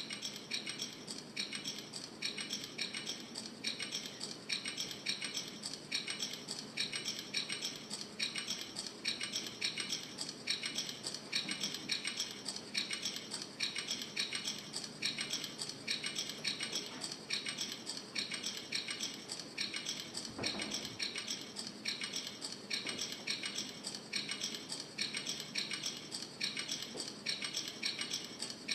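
Steady rhythmic metallic rattling, about two shakes a second, like a shaker or clinking percussion in a music track. There is a single low thump about twenty seconds in.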